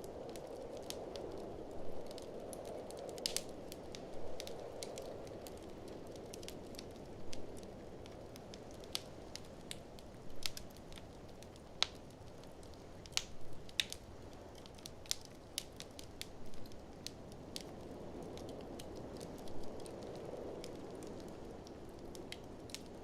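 Wood fire crackling, with sharp irregular pops every second or so, over a steady rush of blizzard wind that swells near the start and again near the end.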